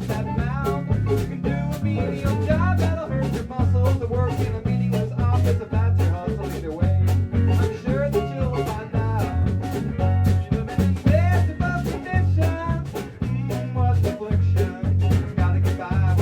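Live band music with an upbeat ska-like feel: a steady drum beat, walking bass notes and guitar, with a wavering melody line on top.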